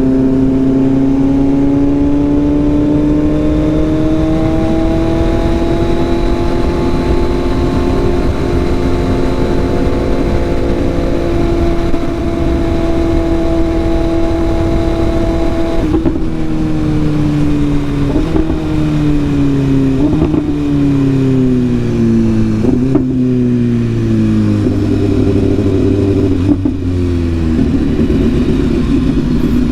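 Sport motorcycle engine heard from the rider's seat with wind rush. The revs climb slowly and hold for about the first half, then drop in a series of short steps with brief breaks as the bike slows through gear changes.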